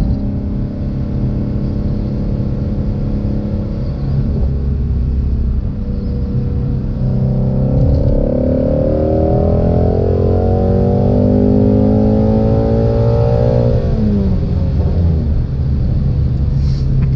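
Ford Shelby GT350's flat-plane-crank V8 engine and exhaust heard from inside the car: running at a steady speed, then from about seven seconds in revving up steadily under hard acceleration for several seconds, before the revs drop sharply near the end.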